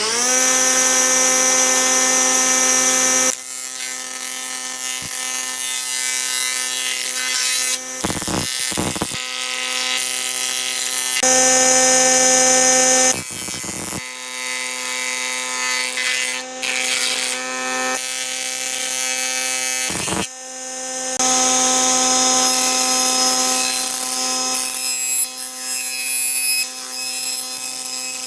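Electric power tool running and working wood: a steady motor whine that reaches full speed at the very start, with the rasp of the cut changing as it works. The sound jumps abruptly several times, as clips are cut together.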